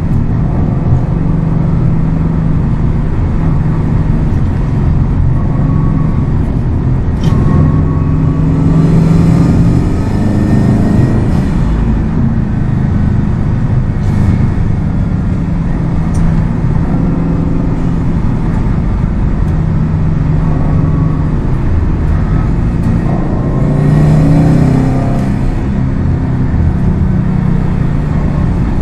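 Subaru WRX STI's turbocharged flat-four engine running under way, its note rising and falling with the throttle along with steady road noise. It pulls harder about a third of the way in and again near the end.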